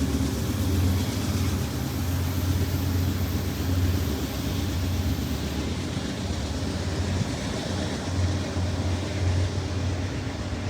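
Train rumbling steadily at low pitch, with a high hiss that fades out about halfway through.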